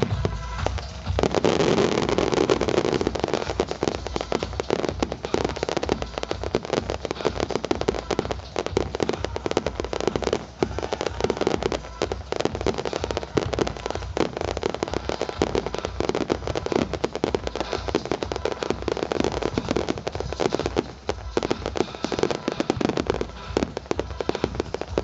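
Fireworks display: a dense, continuous barrage of bangs and crackling from aerial shells bursting, easing briefly about ten seconds and about twenty seconds in.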